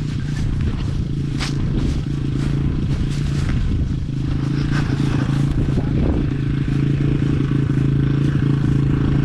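Yamaha XT225 dirt bike's single-cylinder four-stroke engine running steadily at a constant speed. A couple of sharp clicks come through about one and a half seconds in and again about five seconds in.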